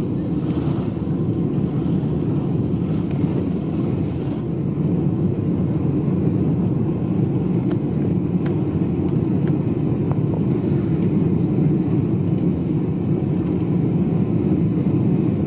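Boeing 747-400's engines and airflow heard from inside the passenger cabin as a steady low rumble, growing slightly louder about four and a half seconds in.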